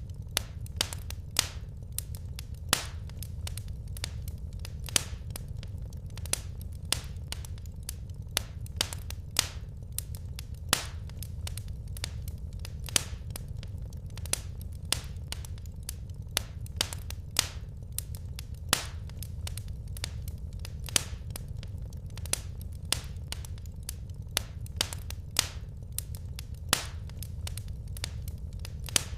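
Wood fire crackling in a fireplace: sharp, irregular pops, about one or two a second, over a steady low rumble.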